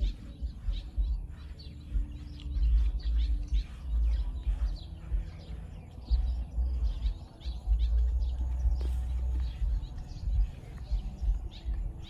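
Small birds chirping quickly and continuously, over a low rumble that swells and fades.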